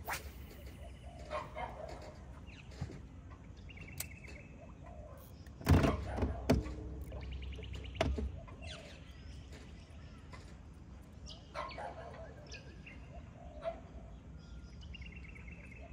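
Birds calling in short, rapid chirping runs, several times. A sharp knock about six seconds in is the loudest sound, with smaller knocks soon after and near eight seconds.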